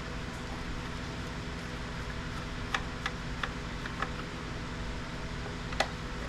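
Light, scattered clicks of a pick probing and prying at a plastic docking-station case: about five small clicks in the middle and one sharper click near the end, over a steady hum.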